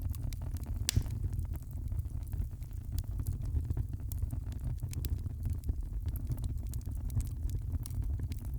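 Wood fire in a fireplace crackling: frequent irregular sharp pops over a steady low rumble, with one louder pop about a second in.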